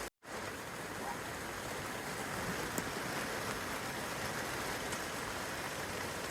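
Steady rain falling on a young fruit tree's leaves and the grass below, with a few faint drip ticks. The sound cuts out completely for a split second just after the start, then resumes.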